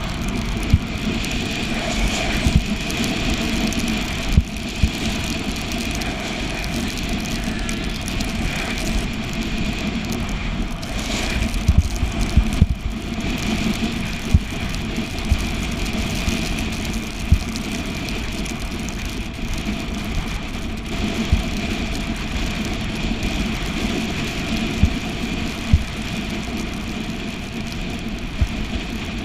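Steady road and wind noise from a bicycle ride, with frequent short knocks from bumps.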